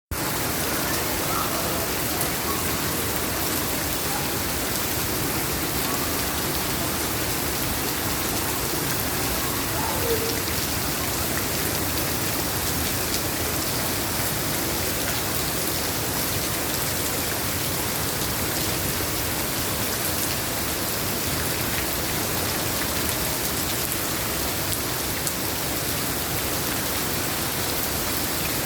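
Steady rain falling and pattering on surfaces, a constant even hiss.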